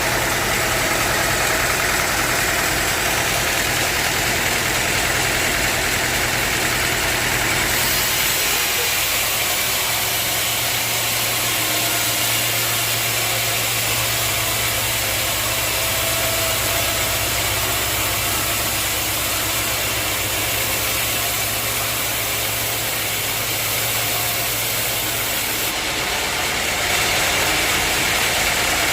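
Sawmill machinery running steadily: a constant low hum under a noisy rush, the sound changing about eight seconds in and again a few seconds before the end.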